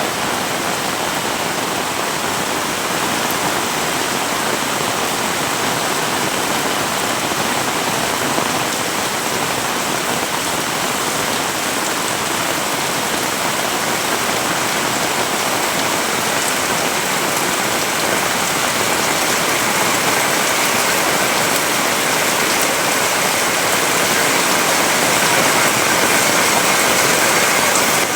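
Heavy rain pouring steadily, a dense even hiss of rain on surfaces that grows slightly louder toward the end.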